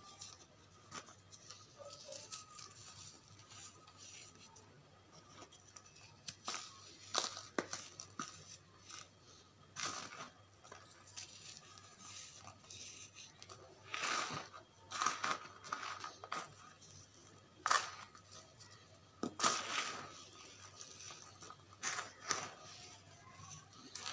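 Bars of charcoal being crumbled by hand, in irregular crunches and crackles with brief pauses between them.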